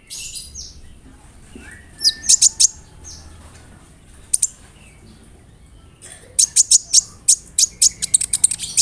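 Kolibri ninja (Van Hasselt's sunbird) singing sharp, high chirps: a few scattered notes, then a fast rolling run of chirps from about six seconds in.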